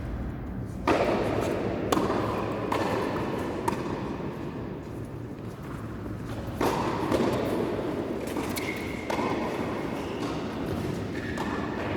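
Tennis ball struck by rackets in a rally: a few sharp hits at uneven intervals over steady court background noise.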